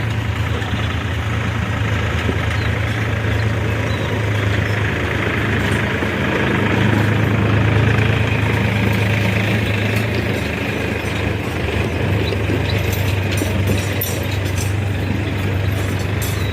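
Heavy diesel engine of construction machinery running steadily with a deep low hum, swelling slightly about halfway through.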